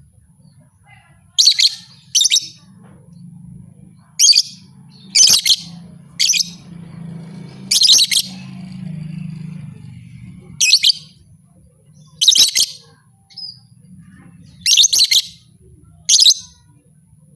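Lovebird calling: short, high-pitched chirping bursts, about ten of them at irregular intervals, some coming in quick pairs.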